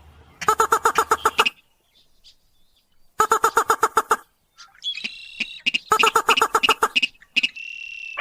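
Rail (sintar / mandar padi) lure call: three bursts of rapid, evenly spaced notes, about ten a second, each burst lasting about a second. A short steady whistle follows near the end.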